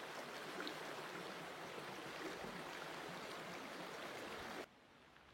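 A steady rushing noise that cuts off suddenly near the end, leaving only a faint hiss.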